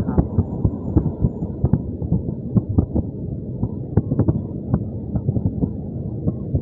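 Passenger train carriage running along the track, heard from inside: a steady low rumble with frequent irregular knocks and clatter from the wheels and running gear.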